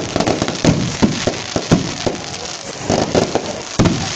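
Huge burning bonfire crackling, with about ten loud, irregular sharp pops and cracks over a steady rushing noise.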